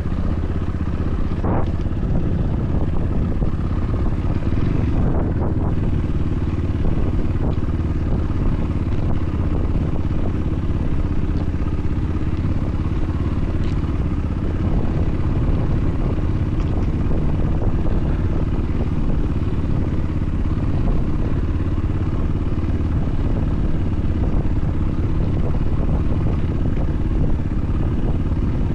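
BSE enduro motorcycle engine running steadily, with a dense low rumble and a short click about a second and a half in.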